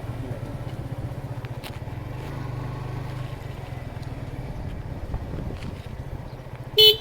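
Motorcycle engine running with a steady, low, pulsing rumble. A short, loud horn beep sounds near the end.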